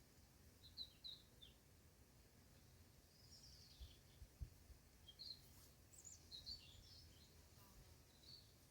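Faint small birds chirping in short, scattered high calls over a low, steady outdoor rumble of wind.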